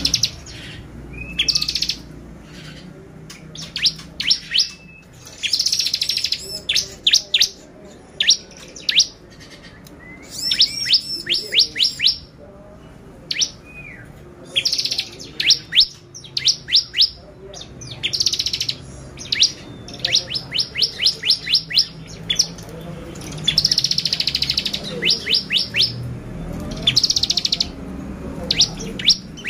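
Bar-winged prinia (ciblek) singing: bouts of sharp, high chirps in quick series and short buzzy trills, one after another with brief gaps between.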